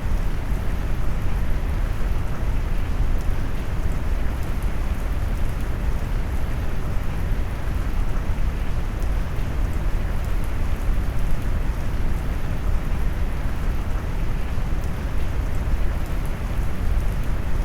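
Steady rain sound mixed with brown noise: a low, warm, even rush weighted to the bass, its highs muffled, with faint raindrop ticks on top.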